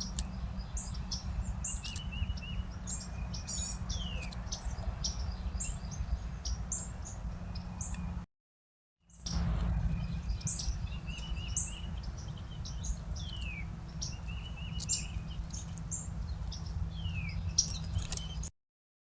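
Songbirds chirping in a backyard: many short, sharp high chips and a few down-slurred whistles, over a steady low hum. The sound cuts out for under a second about eight seconds in and again near the end.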